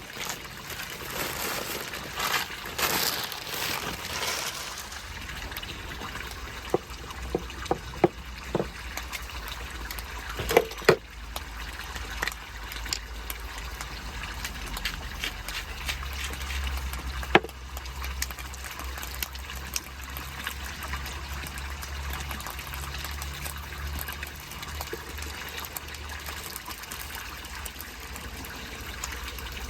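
Water pouring and trickling, with a few sharp clicks and knocks about a third of the way in and a low steady hum underneath.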